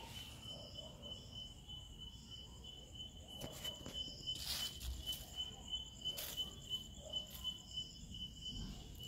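Crickets chirping in a steady, fast pulsing trill, with a few brief rustles or scrapes, the loudest about halfway through.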